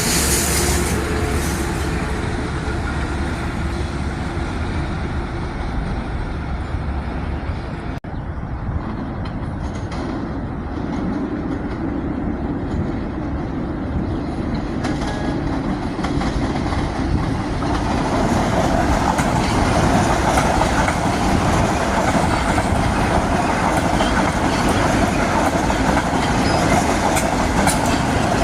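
Metro-North commuter train running on the tracks, wheels clattering over the rails. It grows louder from about 18 seconds in.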